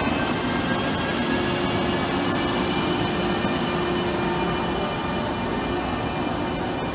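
Train running past on the rails: a steady, loud rumble with faint high whines that slowly fall in pitch.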